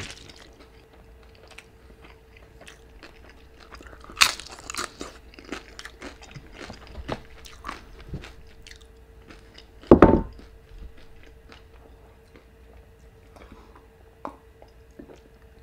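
Close-miked chewing and crunching of a crispy fried birria queso taco soaked in consommé, with many small wet clicks and one sharp crunch about four seconds in. A louder low thump comes about ten seconds in.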